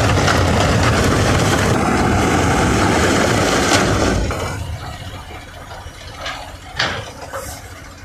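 Heavy machinery running: a loud, steady rushing noise over a low engine hum that drops away about four seconds in, leaving a quieter engine background with a few short knocks.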